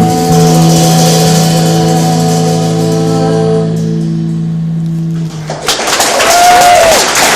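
The band's last chord is held and rings out for about five seconds, then the audience breaks into applause and cheering, with a whistle from the crowd about six and a half seconds in.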